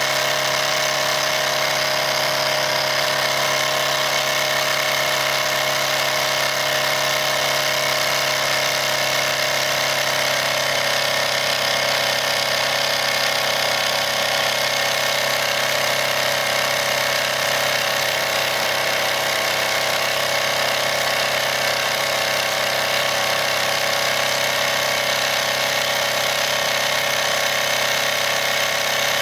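Wilesco D101 toy steam engine with its double-acting cylinder running fast and steady, turning its line shaft with the small grinder and table saw: an even mechanical whirr with several held tones.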